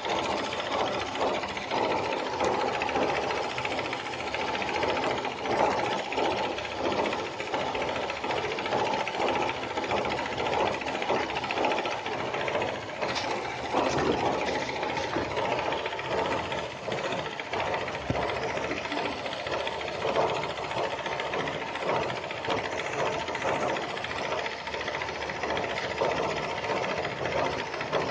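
Homemade model steam engine running steadily, with a fast, continuous mechanical clatter of rapid knocks.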